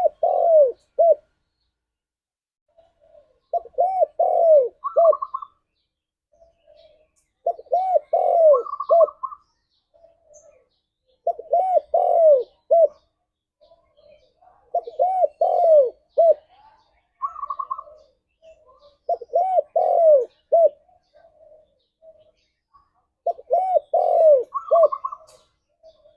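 Spotted dove (tekukur) cooing: a short phrase of several rounded coos, repeated about every four seconds, seven times in all, with a brief higher note after some phrases.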